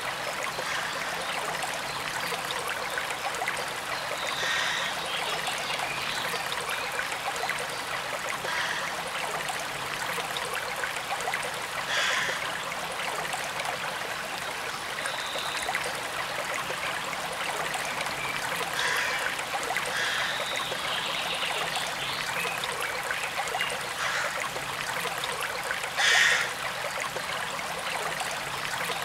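A forest stream running steadily, its water rushing and trickling, with a few brief louder moments, the strongest near the end.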